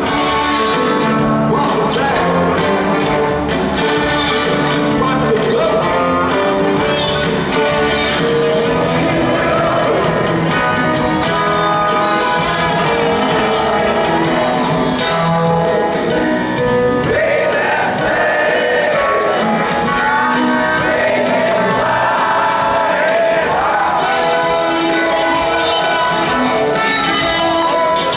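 Live rock band playing a song with a lead vocal, steady and loud throughout.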